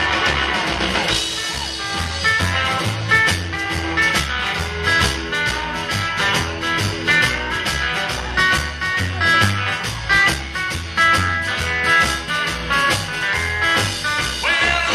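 Live rock and roll band playing an instrumental stretch: electric guitar over bass and drums keeping a steady beat.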